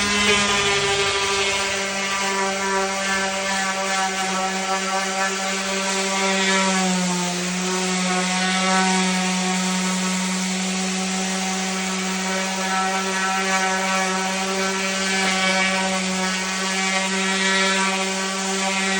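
Electric power sander running against wood: a steady motor whine over a rasping hiss of sanding. The pitch dips slightly about seven seconds in.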